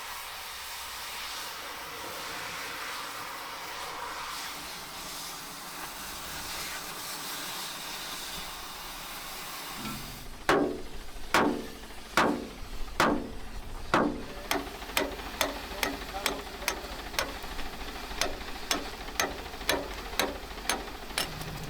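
A steady hiss for about the first ten seconds, then a run of sharp, ringing knocks: the first few just under a second apart, then quickening to about two or three a second.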